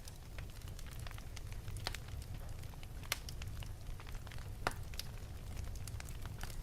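Wood fire burning in an open fireplace: irregular crackles and pops over a low rumble of the flames, with sharper pops about two, three and four and a half seconds in.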